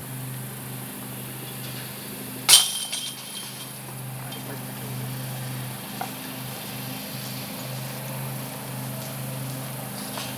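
A putted disc golf disc strikes the chains of a metal basket once, about two and a half seconds in: a sharp metallic clash that rings briefly and dies away. A steady low hum runs underneath.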